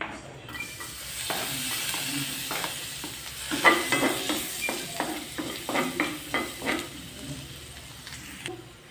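Chopped onion and garlic sizzling in hot oil in an aluminium wok, with a wooden spatula scraping and knocking against the pan as it stirs them. The knocks come thickest in the middle and thin out near the end.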